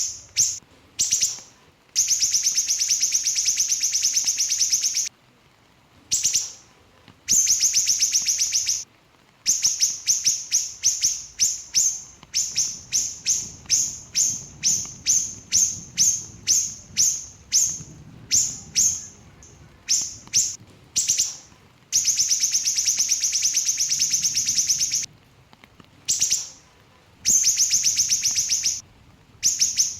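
Small siri-siri songbird singing rapid, tightly packed high notes: dense trills lasting a few seconds each alternate with runs of separate sharp chirps, with brief pauses between phrases.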